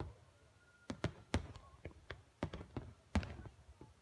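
Fireworks going off: a run of sharp bangs at uneven intervals, about two to three a second, some followed by a short echoing tail.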